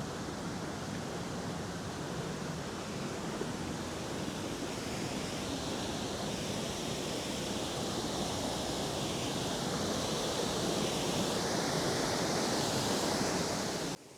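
Waterfall: a steady rush of falling water that grows slowly louder and cuts off abruptly near the end.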